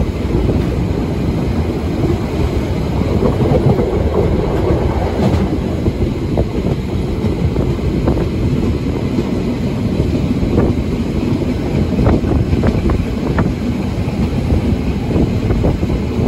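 Harz narrow-gauge train running along the track, heard from inside a carriage: a steady rumble of wheels on rails, with a few sharper clicks from the rail joints in the second half.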